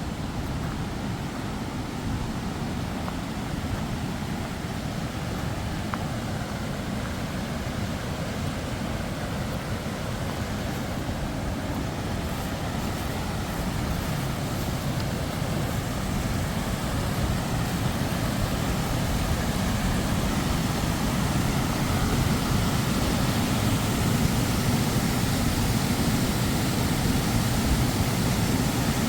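Steady rushing roar of a waterfall, growing slowly louder.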